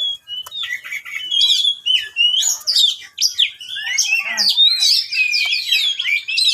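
Oriental magpie-robin (kacer) singing a continuous, rapid, varied song of chirps, trills and sweeping whistles.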